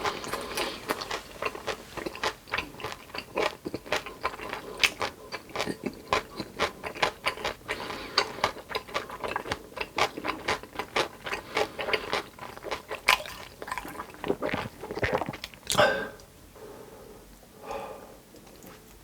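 Close-miked eating: rapid crisp crunching and wet chewing at several bites a second, which stop about three-quarters of the way through, leaving a quieter stretch with a couple of soft mouth sounds.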